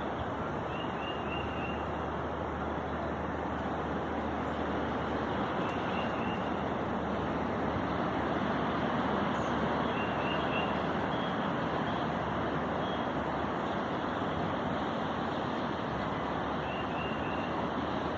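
Strong gusty wind rushing steadily, swelling slightly around the middle. A few faint high chirps recur now and then.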